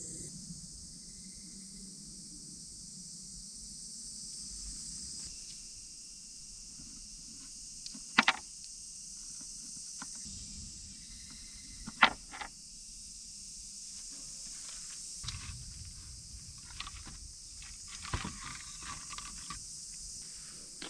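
Firewood being split: two sharp, loud knocks about four seconds apart, then a run of lighter knocks and cracks of wood near the end.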